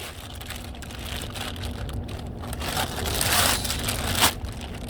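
Rustling and scraping of a plastic mud flap being handled and fitted into the wheel well, louder about three seconds in, with a sharp click a little after four seconds.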